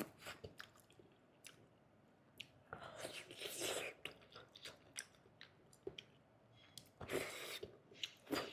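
Close-miked chewing and wet mouth sounds, with many short soft clicks. There are two longer noisy stretches, about three and seven seconds in.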